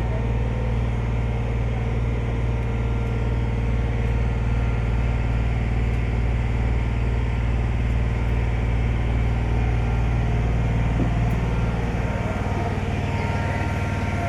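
Ferry engine running with a steady, deep drone; the lowest part of the hum drops away about twelve seconds in, as the engine changes speed.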